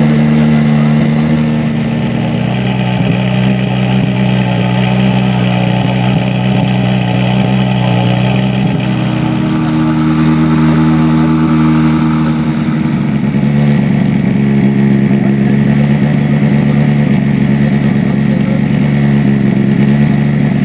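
Hyundai i20 R5 rally car's 1.6-litre turbocharged four-cylinder engine idling steadily at standstill, its note shifting slightly a couple of times partway through.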